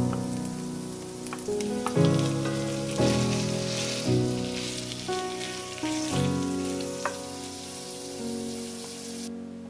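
Food sizzling with a steady hiss, under soft piano music, with a few light clicks.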